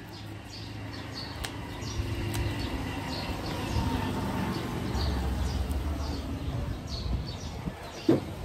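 A bird chirps repeatedly, about twice a second, over a low rumble that swells in the middle and fades. A short knock comes near the end.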